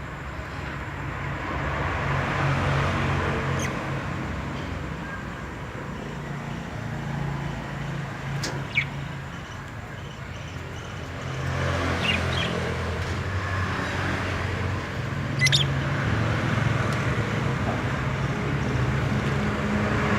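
Road traffic going past, swelling and fading over several seconds, with a few short bird chirps.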